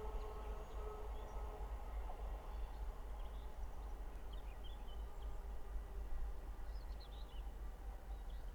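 Outdoor lineside ambience: a low wind rumble on the microphone, with scattered bird chirps. The hum of a receding electric train fades away over the first couple of seconds.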